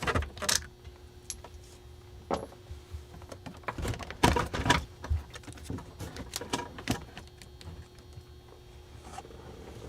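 Irregular clicks, knocks and rattles of a truck's plastic dash panel being unclipped and handled, loudest about four to five seconds in.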